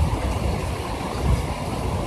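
Heavy rain drops beating on a window ledge and on the body of the phone recording them: a dense, steady patter with a deep, uneven rumble underneath.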